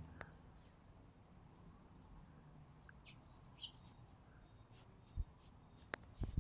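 Quiet outdoor ambience with a few faint, short bird chirps around the middle, and a soft low thump and a click near the end.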